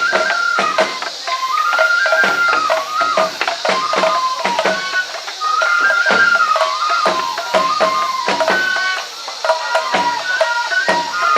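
Japanese festival hayashi music for a lion dance: a high bamboo flute plays a melody of held notes over regular drum strikes.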